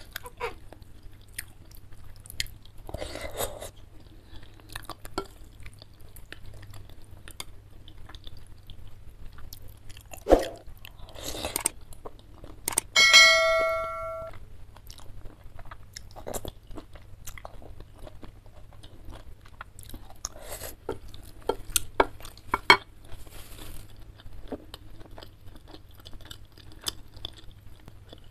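Close-miked chewing and mouth noises of someone eating noodles, with scattered wet clicks and smacks. About halfway through, a metal fork clinks against the ceramic bowl and rings for about a second.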